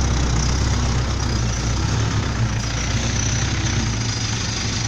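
Heavy diesel engine running with a steady low drone.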